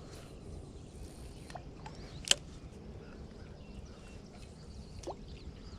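Quiet outdoor background with a few faint bird chirps, and one sharp click a little over two seconds in.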